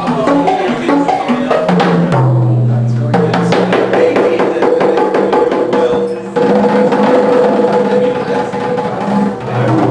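Live percussion music: fast, dense drum and wood-block strokes over sustained pitched tones that shift every second or two.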